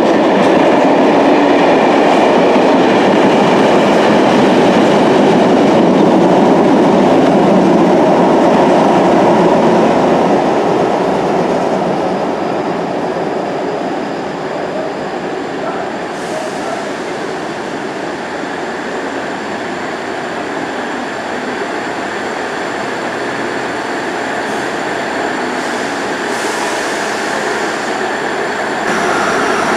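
A freight train of flat container wagons running through on the near line, its wheels loud on the track for the first ten seconds or so before the sound falls away. A Class 159 diesel multiple unit then runs at the platform, quieter and steady.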